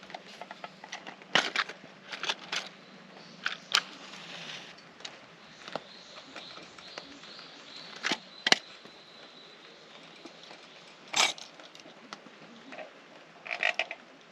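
Campfire crackling, with irregular sharp pops and snaps from the burning wood every second or so over a faint steady background.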